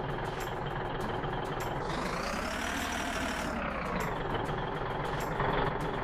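Engine of a heavily loaded wood truck running steadily while it is manoeuvred, its pitch rising and then falling once around the middle.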